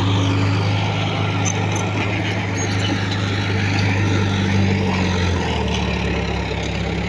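Heavy diesel engine of earthmoving machinery running steadily, its pitch dropping about five and a half seconds in as it eases off.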